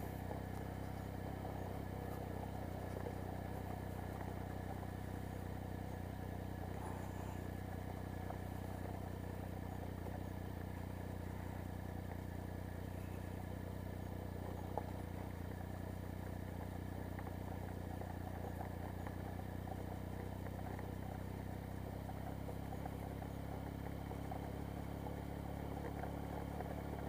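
Triumph Speed Triple's three-cylinder engine running steadily at low revs as the motorcycle is ridden slowly over gravel, with one small click about halfway through.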